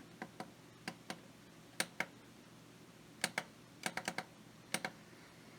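Faint, irregular small clicks, mostly in quick pairs: the plastic buttons of a portable white noise machine being pressed and released.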